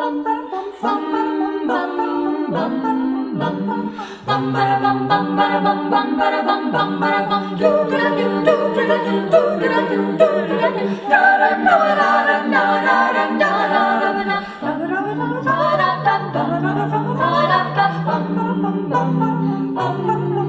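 High school choir singing a cappella in several parts, with no instruments; low voices enter about four seconds in beneath the upper parts.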